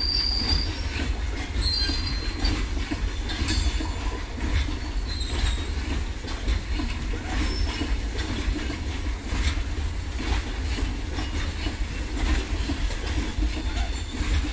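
Freight train wagons rolling steadily past, a continuous low rumble with the clatter of steel wheels over rail joints. A few brief high wheel squeals come in the first couple of seconds.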